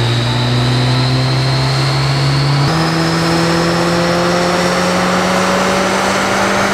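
Mercedes-AMG A45 S's M139 turbocharged four-cylinder engine pulling hard under load on a chassis dynamometer, its note climbing steadily through the run with a sudden jump in pitch about two and a half seconds in.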